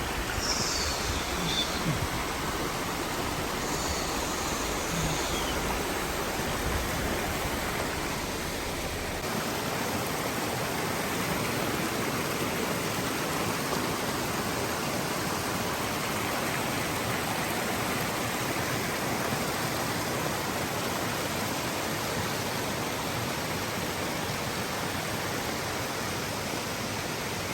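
Steady rush of a swift mountain stream pouring down from waterfalls.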